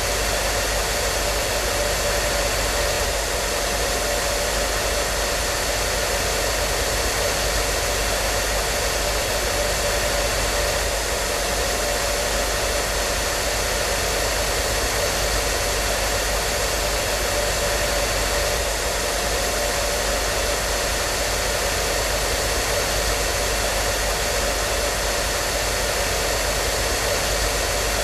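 Hair dryer running continuously: a steady, unchanging rush of air with a constant motor hum.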